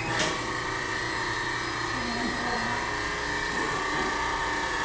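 A small electric machine running with a steady whir and a high whine. A sharp knock comes about a quarter second in.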